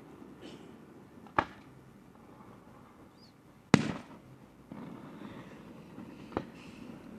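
Fireworks going off: three sharp bangs spaced a couple of seconds apart, the middle one loudest, with low rumbling and crackle between them.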